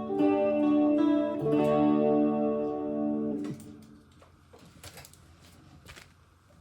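Electric guitar played through a Sonicake Matribox 1 multi-effects unit into an Alto TS408 powered speaker: sustained chords that change twice, then stop suddenly about three and a half seconds in. Faint clicks and hiss follow.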